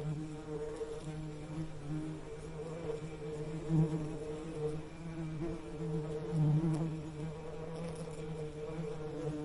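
Bees buzzing steadily in a low, droning hum that swells louder and fades again, loudest about four seconds in and again between six and seven seconds.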